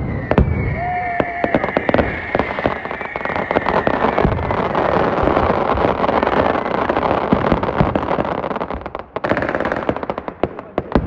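Fireworks going off: a long rapid string of firecracker bangs crackling like machine-gun fire, with a high whistle drifting slightly downward over the first few seconds. The crackle thins to scattered pops near the end.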